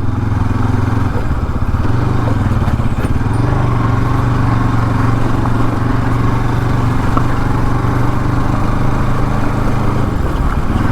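Motorcycle engine running steadily while riding, at an almost constant pitch, with road and wind noise, easing slightly near the end.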